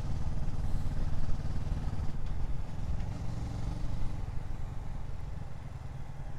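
Motorcycle engine running steadily under way, with wind rushing over the microphone; the engine sound eases a little in the second half.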